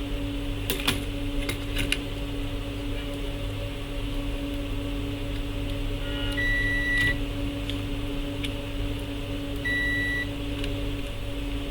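Two short, clear electronic beeps about three seconds apart, over a steady electrical hum from bench equipment. A few sharp clicks near the start.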